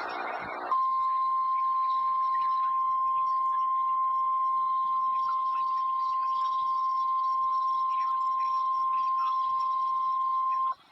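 NOAA Weather Radio warning alarm tone: one long, steady, unbroken high tone on a weather radio. It follows a brief hiss, starts under a second in and cuts off suddenly just before the end. It signals that a warning broadcast follows, here a severe thunderstorm warning.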